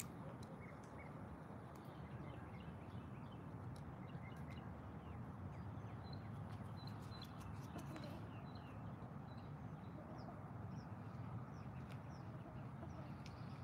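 Small birds chirping, many short, scattered calls over a soft steady hiss.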